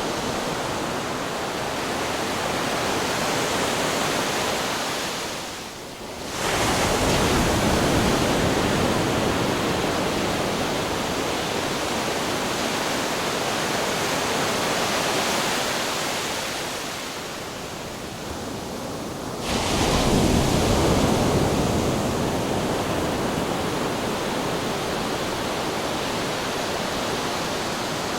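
Ocean waves breaking on rocks: a continuous wash of surf, with two heavy waves hitting suddenly about a quarter and two-thirds of the way through, each after a short lull.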